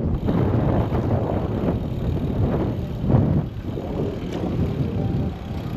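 Wind buffeting the microphone of a bike-mounted GoPro while cycling, an uneven low rumble that swells and fades in gusts, strongest a little past the middle.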